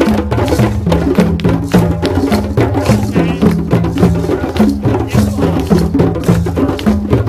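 African drum ensemble: many hand drums struck together in a fast, steady rhythm, over a repeating pattern of low drum notes.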